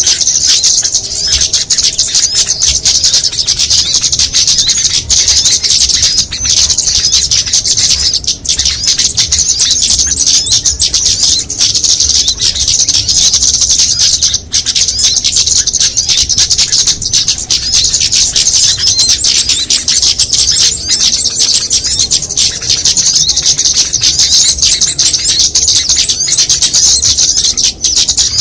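Small songbirds chirping rapidly without a break in a dense, high-pitched stream: a mixed-species lure recording used to call in small birds for trapping.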